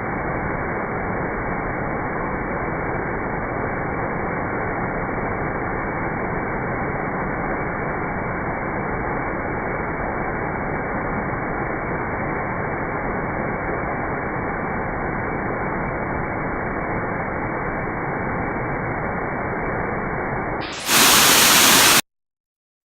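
Steady, muffled rushing of waterfall water, with no rhythm or change. Near the end it jumps to a louder, brighter hiss for about a second, then cuts off suddenly.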